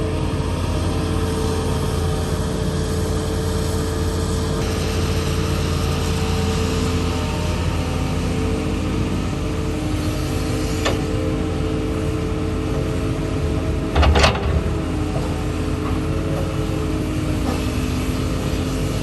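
Diesel engines of an excavator and dump truck running steadily while digging, with a loud knock about fourteen seconds in and a couple of fainter clicks.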